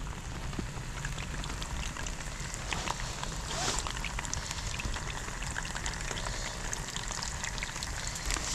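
Steady rain falling, with many small drop hits ticking throughout.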